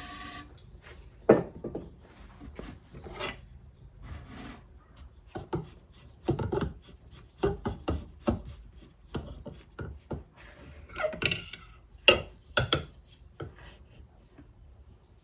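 Motorcycle fork parts being handled and cleaned: irregular knocks and clatter with scraping and rubbing between them, the sharpest knocks about a second in and about twelve seconds in.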